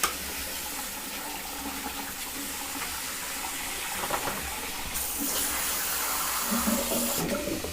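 Hot water from a hand-held shower spraying steadily onto a vintage sewing machine as it is hosed down. The spray gets brighter for about two seconds past the middle.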